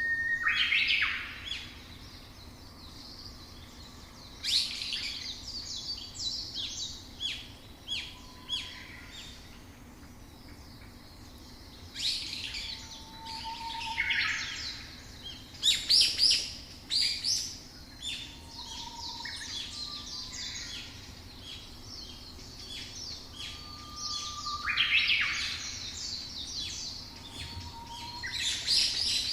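Songbirds chirping and singing in bursts of quick, high chirps and trills, with pauses between the bursts. Faint short whistled notes from other birds sound lower down.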